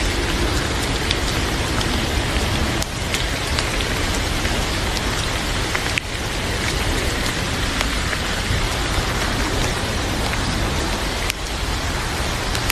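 Heavy rain falling steadily, a dense even hiss with scattered sharp ticks, briefly dipping in level three times.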